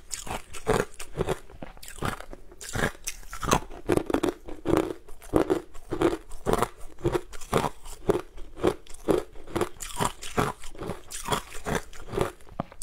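A person chewing a mouthful of crumbly frozen food: a steady run of crisp crunches, about two to three a second.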